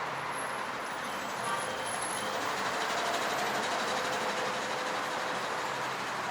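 Steady city traffic noise: the even wash of passing vehicles, with a faint low hum under it.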